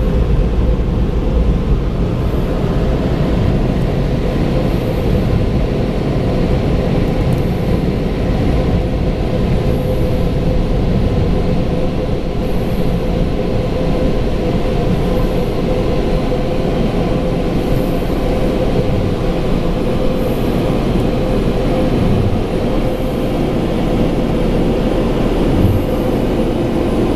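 Belanger car wash air dryer blowers running on the car: a steady, loud rush of air with a constant whine.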